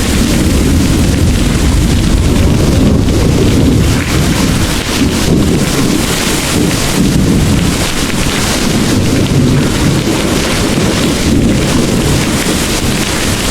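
Heavy rain pouring steadily, with a deep rolling rumble of distant thunder underneath.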